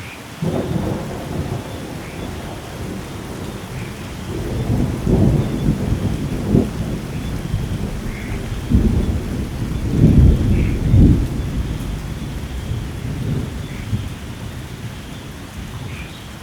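Steady heavy rain with a long roll of thunder that breaks in about half a second in, rumbles on with its loudest peaks near the middle, and fades down near the end.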